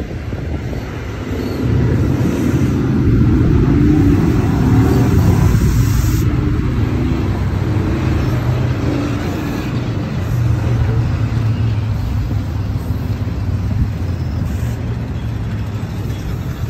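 NJ Transit bilevel commuter train rolling past at close range: a loud, steady rumble of wheels on rail with a low hum. It gets louder about two seconds in.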